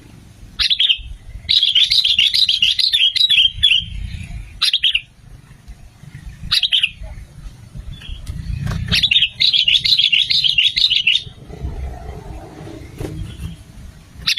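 Sooty-headed bulbul calling: a few short, separate whistled notes and two longer runs of rapid chattering notes, one starting about a second and a half in and one about nine seconds in.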